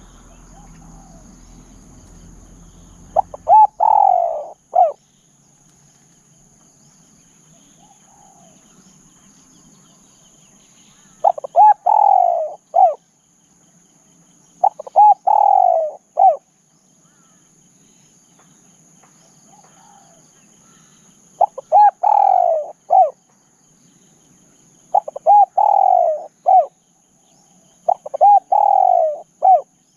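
Spotted dove cooing: six phrases, each a couple of short clipped notes, a longer falling coo and a short closing note. Behind it runs a steady high insect drone.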